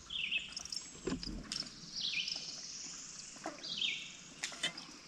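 A bird singing a short, quickly falling phrase three times, about every second and a half to two seconds, with a few light clicks between the phrases.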